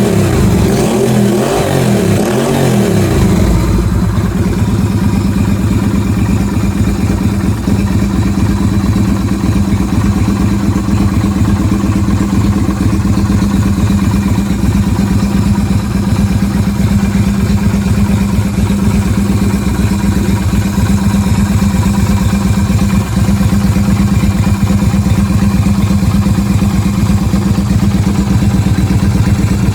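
Yamaha Virago 250's air-cooled V-twin engine running: its pitch wavers for the first three seconds or so, then it settles into a steady idle.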